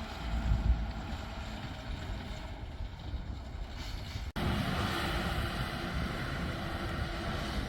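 Diesel engines of heavy farm machinery running steadily, with some wind rumble on the microphone. A brief cut-out a little over four seconds in, after which the engine noise sounds brighter.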